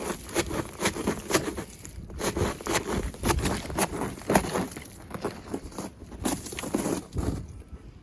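A boot repeatedly kicking and scraping at a pile of ice and crusted snow: irregular crunches and cracks, several a second, with scraping between.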